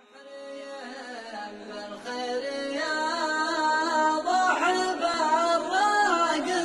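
Unaccompanied chanted singing, several voices layered on a drawn-out melody with no words picked out and no percussion. It fades in over the first half second and grows louder about two seconds in.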